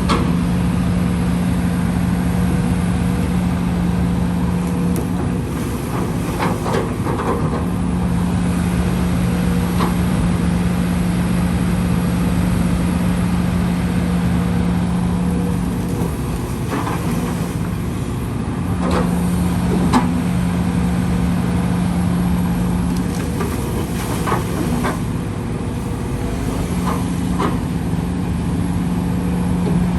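Diesel engine of heavy machinery running steadily, its hum dropping and returning several times as the load changes, with scattered short knocks and clanks.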